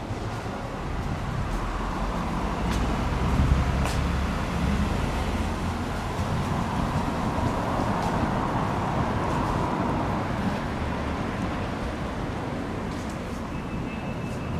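Steady outdoor road-traffic and vehicle noise, with a low rumble swelling about three to four seconds in and another broad swell of passing traffic around the middle.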